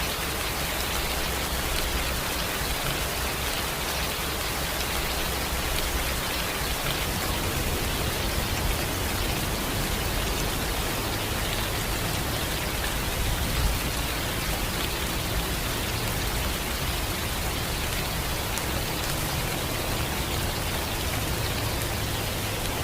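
Steady rain falling: an even, unbroken hiss of raindrops.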